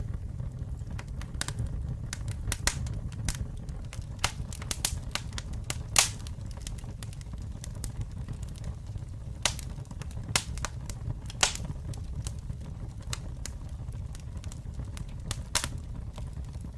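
Campfire burning: a steady low rumble of flames with irregular sharp crackles and pops of wood, one louder pop about halfway in.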